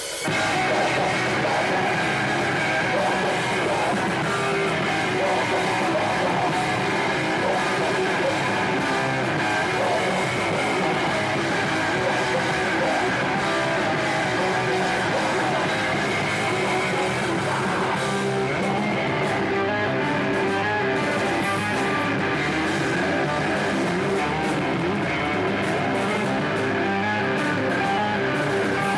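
Hardcore band playing live at full volume: distorted electric guitars and drum kit, kicking in suddenly at the start of the song and driving on without a break.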